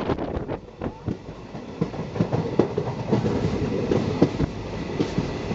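Indian passenger train running along the line, its wheels clattering and knocking over the rail joints. Heard through an open carriage door, with a steady rush of running noise that grows louder about two seconds in.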